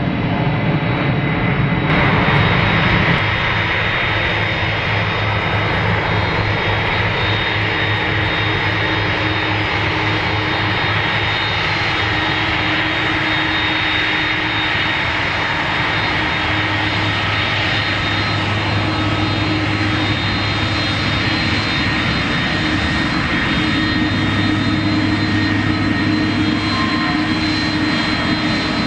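Airliner engines running steadily: a loud, even rushing noise with thin, steady high-pitched whining tones over it.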